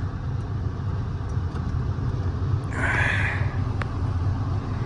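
Steady low rumble of a Lexus sedan's engine and tyres, heard from inside the cabin while driving on snowy roads, with a brief higher-pitched sound about three seconds in.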